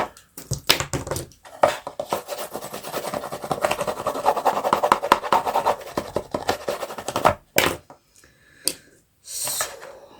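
Hands working paper or card on a craft table: a long run of rapid scratching and rubbing, then a few separate sharp clicks and a brief scrape near the end.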